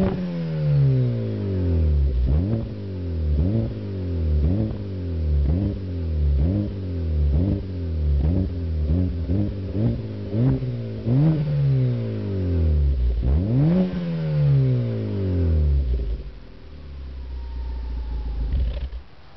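Citroën C4 engine through a Borla aftermarket exhaust, revved in repeated sharp blips that rise quickly and fall back, about one a second and quicker near the middle. Two longer revs follow, then it settles to a steady idle near the end.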